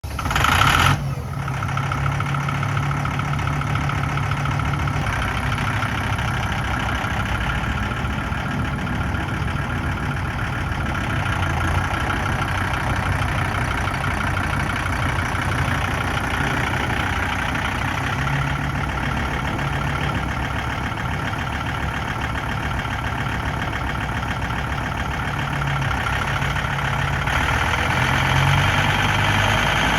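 John Deere 5225 tractor's diesel engine idling steadily, after a brief loud rush of noise in the first second.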